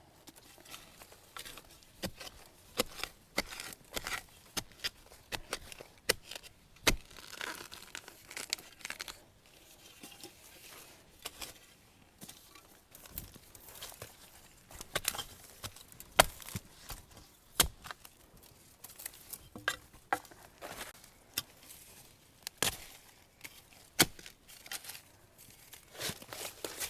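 Dry bamboo leaves and stalks crackling, rustling and snapping in irregular sharp clicks, as a bamboo clump is searched for new shoots. A few snaps stand out louder, about seven, sixteen and eighteen seconds in and near the end.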